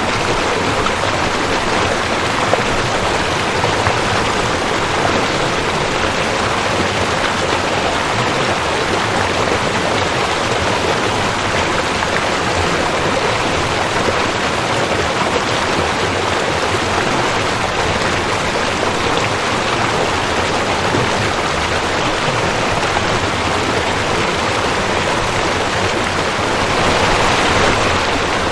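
Rushing creek: water running steadily over rocks, a constant splashing rush that swells slightly near the end.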